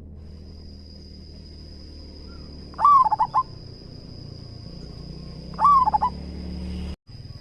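Zebra dove (perkutut) calling twice, about three seconds apart, each phrase a held coo breaking into a few quick rolling notes.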